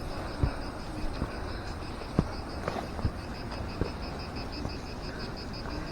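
Forest animal calling in a high, even pulse about five times a second, with scattered light knocks of footsteps on the trail.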